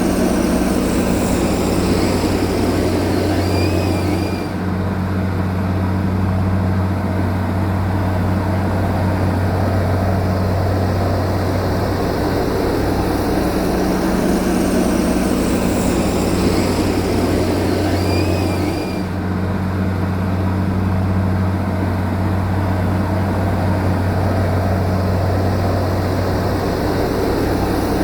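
Heavy diesel machinery engine droning steadily with a low hum. The same stretch of sound repeats about every 14 to 15 seconds, as a looped track does.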